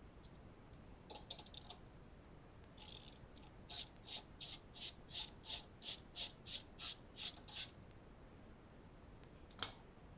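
Ratchet wrench with a 10 mm socket clicking in a run of short, even strokes, about three a second, backing off a carburetor mounting nut on a small go-kart engine. A single sharp clink near the end.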